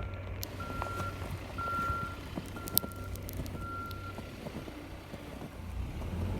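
Snowplow truck's reversing alarm beeping about once a second over a steady low engine hum; the beeping stops a little over four seconds in.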